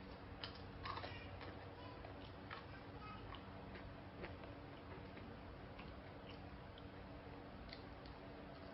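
Faint eating sounds: scattered small clicks from chewing and handling fried chicken and rice, over a steady low hum.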